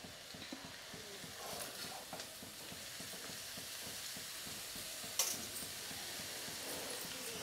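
Potatoes sizzling in hot oil in an iron kadhai as handfuls of chopped bathua greens are dropped in by hand: a steady frying hiss with a few soft rustles and clicks, the sharpest about five seconds in.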